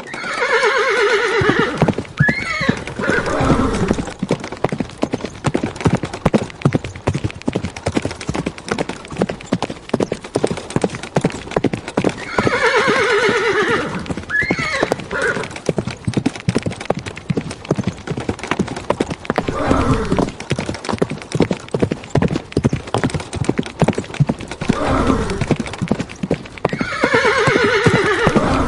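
Horse neighing three times, each a falling whinny (at the start, near the middle and near the end), over a continuous, rapid clip-clop of hooves.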